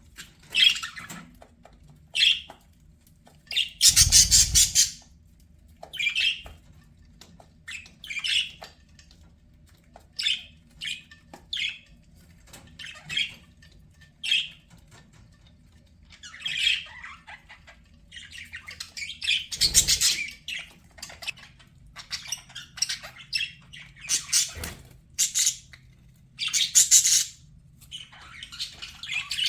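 Budgerigars chirping in a run of short, quick calls, with a few louder, longer calls about four, twenty and twenty-seven seconds in.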